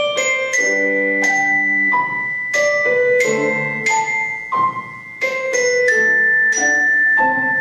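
Solo instrumental music: melody notes and chords struck about twice a second, each ringing on into the next, with the sound of a tuned mallet percussion instrument.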